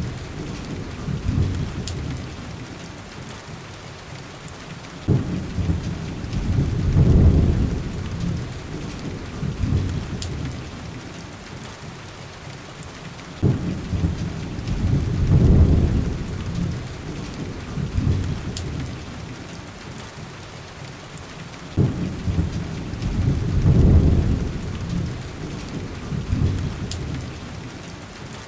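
Steady heavy rain with low rumbles of thunder rolling in about every eight seconds, three times. Each rumble starts suddenly and swells for a couple of seconds before fading back into the rain. The rumbles repeat at even spacing, as a looped recording does.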